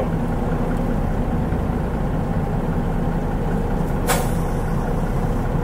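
Mitsubishi Fuso KL-MP37JK bus's turbocharged 6M70 diesel engine running steadily, heard from inside the bus as a low rumble. About four seconds in, a short, sharp hiss of air is released from the bus's air system.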